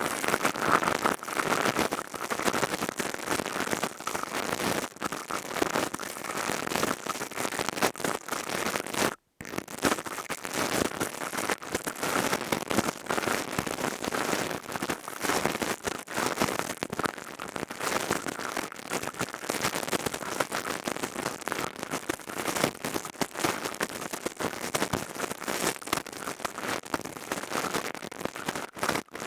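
Crystal tubes worked close to the microphone for ASMR, giving a dense, fast crackling of tiny clicks. It breaks off for an instant about nine seconds in.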